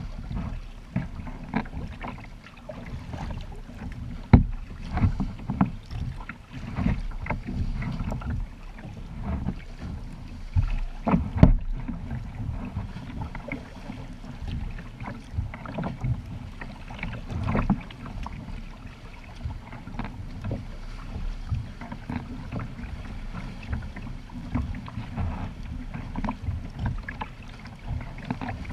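Kayak on the water: irregular splashing and sloshing of water against the hull and paddle, over a steady low rumble, with two sharp knocks, one about four seconds in and one about eleven seconds in.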